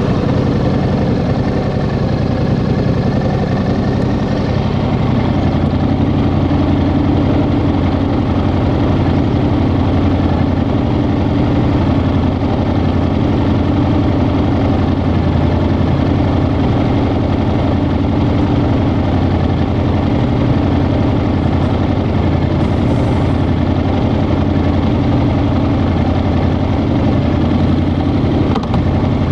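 Yamaha XSR700's 689 cc parallel-twin engine running steadily, with no large revs.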